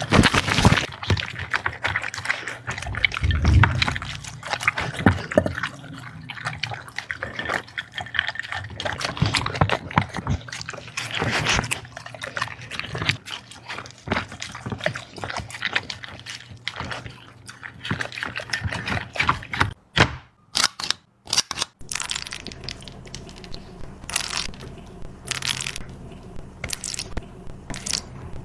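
Dog eating wet food close to the microphone: wet smacking and lapping with the clicks of teeth and jaws. The sound breaks off briefly about twenty seconds in, then goes on as separate bites.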